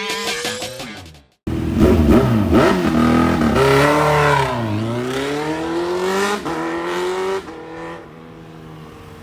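Kawasaki Z1000 Sugomi's inline-four engine, through aftermarket exhausts, revving under acceleration. The pitch climbs, dips about four and a half seconds in, climbs again, then falls back to a quieter level a little after seven seconds. Before the engine sound starts, there is a short cut to silence.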